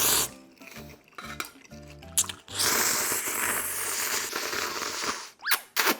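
Close-miked eating sounds over light background music, with a loud burst at the start and a long continuous stretch of noise in the second half.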